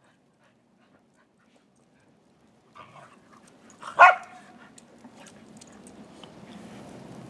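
A dog barks once, loudly, about four seconds in, after a few nearly silent seconds. Softer scuffling and a low rustle follow.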